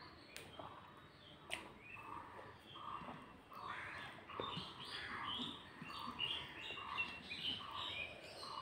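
A bird calling over and over, about two calls a second, starting a couple of seconds in. Two faint clicks in the first second and a half come from fingers mixing rice on a plate.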